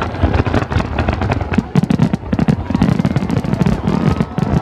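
Large fireworks display: a dense, continuous run of bangs, pops and crackles from many shells bursting in quick succession.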